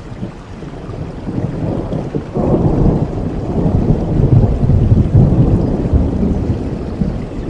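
A rumble of thunder over steady rain, swelling suddenly about two and a half seconds in and rolling on loudly to the end.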